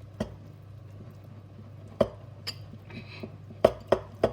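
A fork clinking against a ceramic bowl while stirring cake batter with cocoa powder mixed in: a few scattered knocks that come quicker near the end, over a steady low hum.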